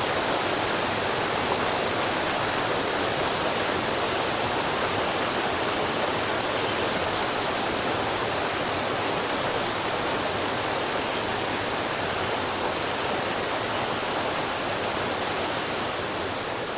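Steady rushing water, an even noise without pitch or rhythm, fading down near the end.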